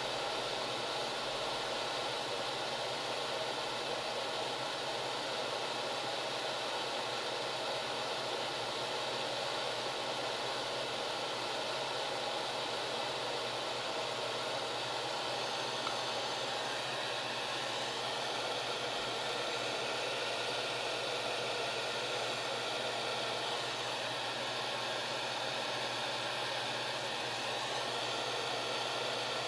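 Hot-air soldering gun running, its fan blowing a steady rush of air.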